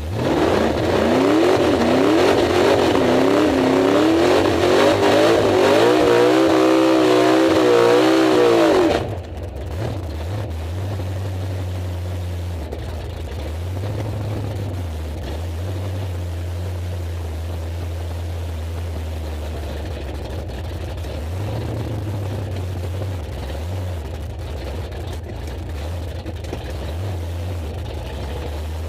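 Drag car's engine at full throttle, heard from inside the cabin on a quarter-mile pass: the pitch climbs and drops back several times as it shifts up through the gears. About nine seconds in the engine is shut off abruptly, leaving a steady low drone as the car rolls on.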